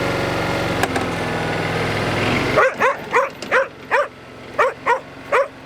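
Honda engine of a Stiga ride-on lawnmower running steadily, cutting off abruptly about two and a half seconds in. Then an Australian working kelpie barks about nine times at the mower in quick, short barks.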